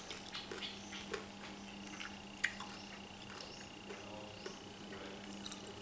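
Soft wet mouth clicks and smacks of someone chewing grilled squid, with one sharper click about two and a half seconds in, over a faint steady hum.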